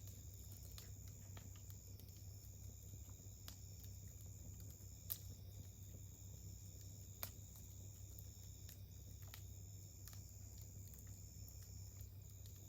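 Wood campfire crackling faintly, with scattered small pops and two sharper pops about five seconds in and again two seconds later. A steady high insect chirring runs underneath.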